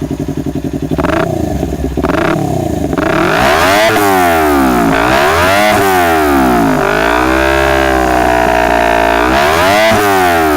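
Kawasaki New Ninja 250 parallel-twin engine through a stainless R9 New H2 full-system exhaust without a dB killer, revved while standing: two quick throttle blips from idle, then repeated revs rising and falling, held high for a couple of seconds before dropping back to idle near the end. It revs cleanly without popping or backfiring, even at high RPM.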